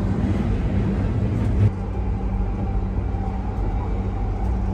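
Commuter train car running, heard from inside: a steady low rumble with a steady hum, easing slightly a little under two seconds in.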